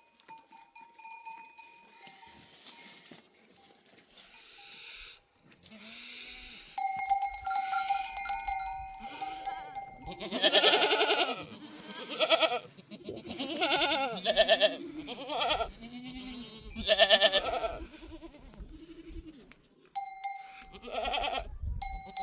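A herd of goats with neck bells: bells clinking throughout, and from about nine seconds in several goats bleating loudly, one call after another, for about ten seconds.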